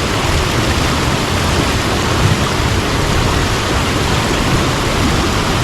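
Mountain stream water rushing over rocks, a loud, steady, even roar of flowing water.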